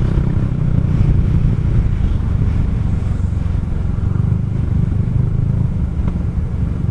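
Kymco Xciting 400i maxi-scooter running steadily at cruising speed, its engine and riding noise a constant low rumble with no change in pace.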